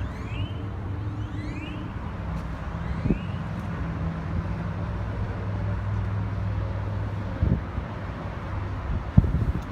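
Pickup truck engine idling steadily, with a few light knocks and some faint, high rising chirps early on.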